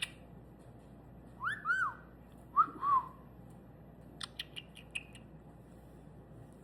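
White-bellied caique parrot whistling: two pairs of short up-and-down whistled notes, then a quick run of short sharp chirps.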